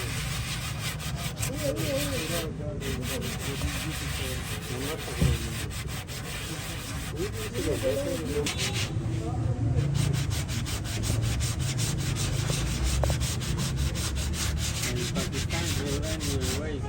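Sanding on a car body panel: steady rubbing and scraping, dense with rapid fine ticks.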